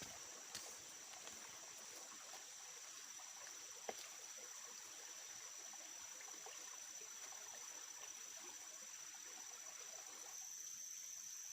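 Crickets trilling steadily in one high tone over an even hiss, with two soft clicks, about half a second and about four seconds in.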